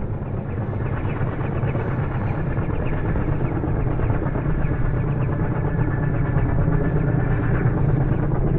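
Low-flying Merlin helicopter, a steady rotor and engine rumble that grows gradually louder.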